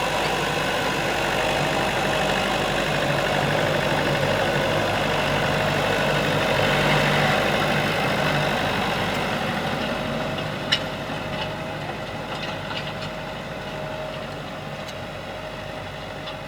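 Tractor engine running steadily, growing gradually fainter in the second half. A single sharp click about two-thirds of the way in, followed by a few fainter ticks.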